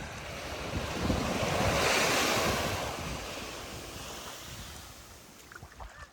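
Andaman Sea surf: a wave breaks on the beach, its wash swelling to a peak about two seconds in and then fading away. Wind buffets the microphone underneath.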